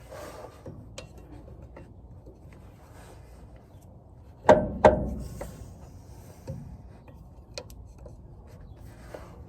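Pry bar working at a truck's drive line: scraping and small clinks, with two sharp clanks about a third of a second apart midway through.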